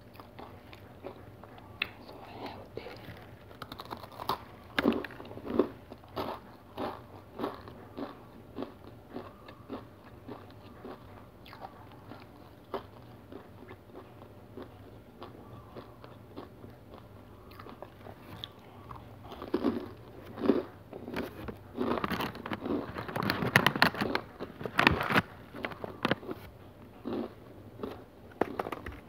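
Close-miked biting and chewing of a crunchy black sesame and whole-grain cereal bar: short crisp crunches come every second or so, with a denser run of louder crunches about three quarters of the way through.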